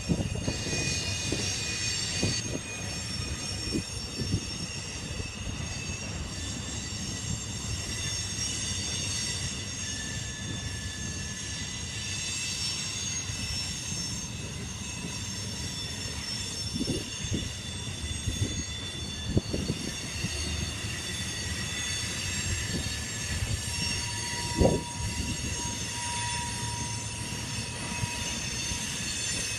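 Covered hopper cars of a freight grain train rolling past, their wheels squealing steadily in several high tones over a low rumble, with a few sharp knocks from the wheels on the rail in the second half.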